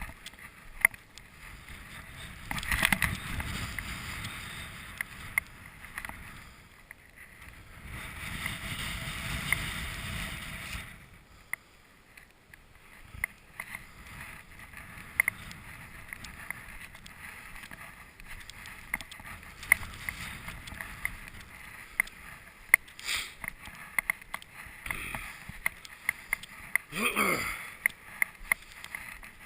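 Boots crunching step by step through deep snow, with two long gusts of wind buffeting the microphone in the first half.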